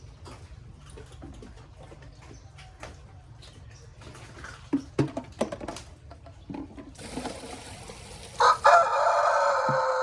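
A rooster crowing once near the end: one long call, falling slightly in pitch as it goes. Before it, scattered light knocks and clicks.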